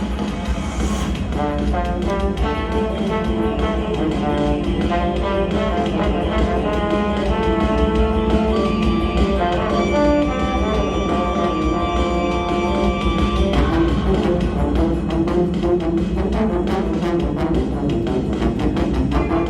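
Brass-led wind ensemble playing, with a run of moving notes that settles into a long held chord about halfway through before the parts start moving again.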